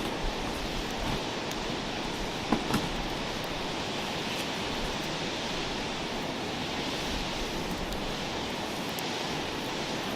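Wood campfire burning: a steady hiss with scattered small crackles, and two louder pops close together about two and a half seconds in.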